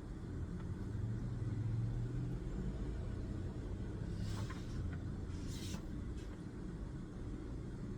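Steady low background rumble at a desk, with two brief rustles of paper about four and a half and five and a half seconds in.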